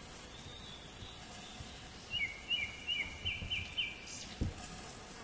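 A bird singing a quick series of short, repeated high chirps, about six notes in under two seconds, after a thin held whistle a little earlier. A single soft thump comes near the end.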